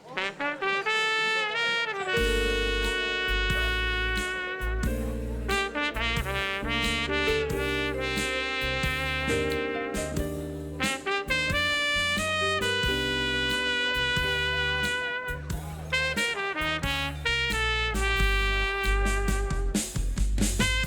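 Jazz band playing, with a trumpet carrying the melody; a walking bass and the rest of the band come in about two seconds in.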